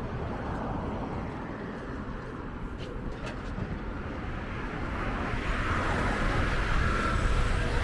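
Outdoor motor-vehicle traffic noise, with a vehicle's engine growing louder about five seconds in.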